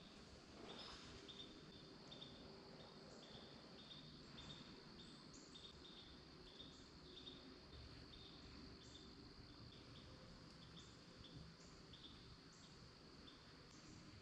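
Faint insect chorus: a steady high-pitched drone with short chirps repeating irregularly, about one or two a second.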